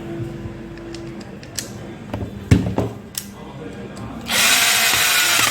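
Bosch GWS 750-100 angle grinder's motor switched on briefly near the end, a loud whine that spins up and cuts off after about a second: a test run with freshly fitted carbon brushes. A few knocks and clicks from handling the grinder come before it.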